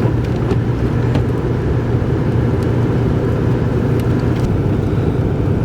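Vehicle being driven, a steady low engine hum with road noise.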